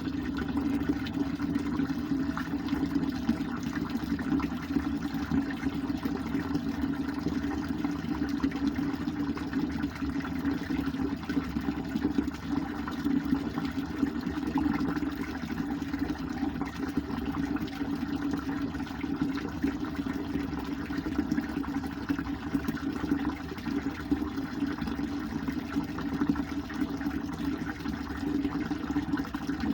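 Ridgeyard gas instantaneous hot water heater running steadily with water flowing through it: a constant rushing hum that comes on at the start and holds level.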